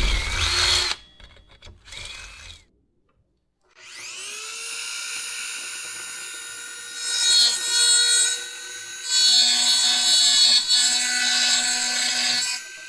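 An electric power tool, such as a drill, makes a few short loud bursts, then stops for about a second. Its motor then spins up and runs steadily, with two stretches of harsh grinding noise as it bears against the metal.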